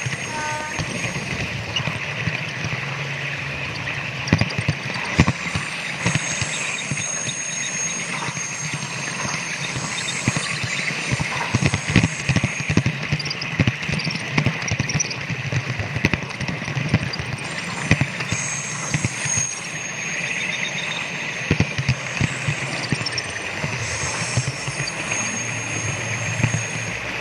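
Model train running on a layout track: irregular clicking as the wheels pass over rail joints, over a steady running hum. A high thin whine comes and goes over it several times.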